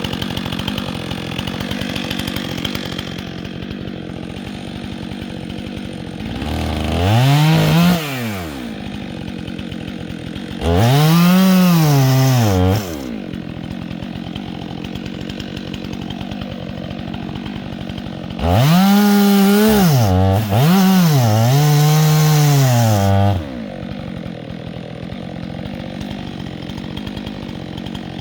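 Chainsaw idling, revved up four times, each time rising in pitch and falling back: once about a quarter of the way in, again about two-fifths in, then twice in quick succession past the middle.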